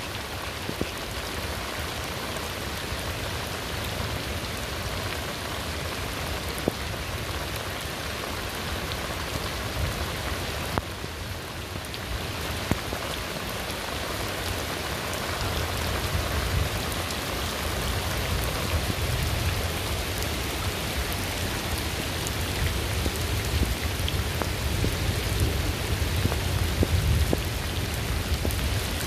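Steady rain falling, a dense even hiss with scattered sharper drop hits. A low rumble builds in the second half.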